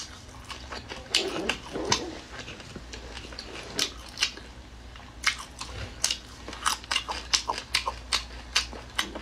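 Close-up chewing and crunching of spicy seafood in the mouth: irregular sharp crunches, more frequent in the second half.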